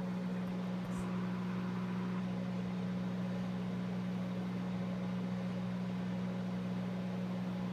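Microwave oven running with a steady low hum while a popcorn popper of kernels heats inside, before any kernels have started to pop. A faint click about a second in.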